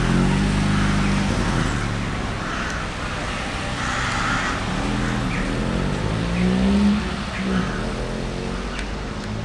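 Dacia Logan car's engine running as the car pulls away and drives off, its pitch rising and falling, loudest about seven seconds in.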